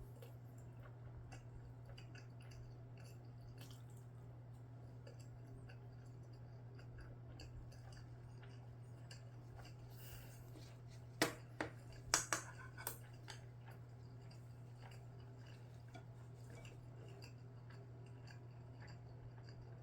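Quiet eating: faint chewing and small clicks over a steady low hum, with a quick cluster of sharp clicks of a utensil against a dish a little past halfway.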